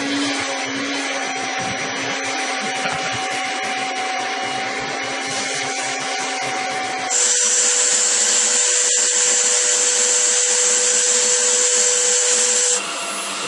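Vacuum cleaner motors running with a steady whine. About halfway through the sound switches abruptly to a louder, hissier vacuum with a different pitch, which runs until just before the end.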